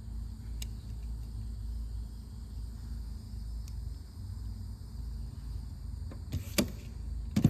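Steady low background hum, with two sharp clicks near the end as a 1/64 scale toy tractor is handled and set down.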